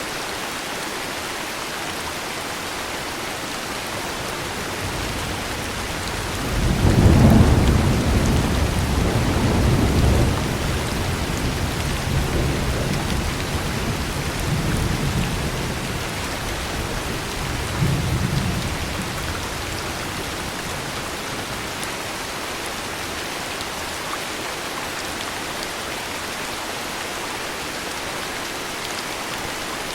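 Steady heavy rain with a long roll of thunder: a deep rumble builds about five seconds in, is loudest a couple of seconds later, and rolls on in several swells before fading away about twenty seconds in.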